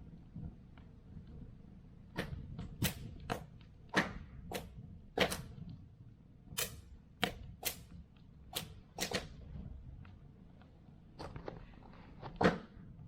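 Wood fire crackling, with irregular sharp pops from the burning firewood, one loudest pop near the end.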